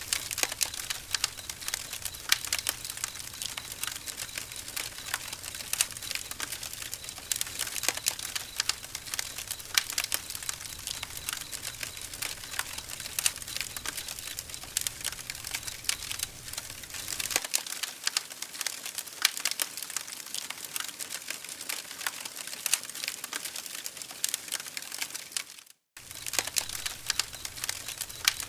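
Campfire crackling, with many quick irregular pops and snaps over a soft hiss. The sound drops out for a split second near the end.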